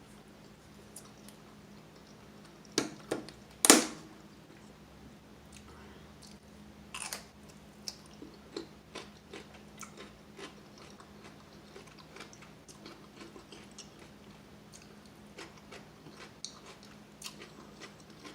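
A person biting into and chewing crispy refried chicken wings, with sharp crunches. The loudest bites come about three to four seconds in and again around seven seconds, followed by steady chewing with smaller crunches. A faint steady hum runs underneath.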